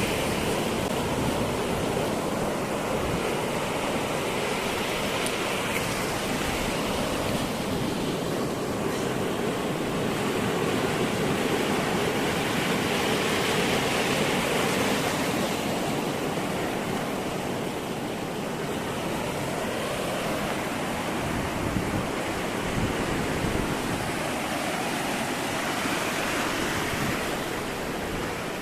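Sea surf: waves breaking and washing up the beach as a steady rush that swells and eases every few seconds.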